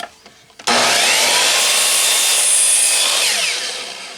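Electric chop saw starting suddenly about two-thirds of a second in and cutting a wooden plank, then spinning down with a falling pitch as the sound fades near the end.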